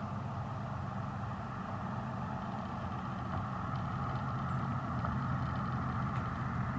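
A 1996 GMC Sierra pickup's engine running steadily through a Flowmaster muffler exhaust, a low even rumble that grows slightly louder.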